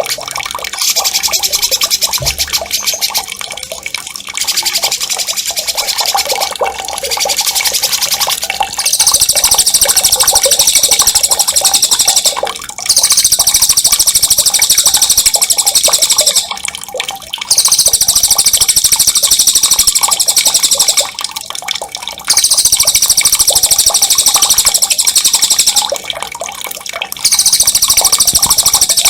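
A songbird's high, very fast rolling trill (ngerol), given in loud bursts of one to four seconds with short breaks between them, over steady running, trickling water.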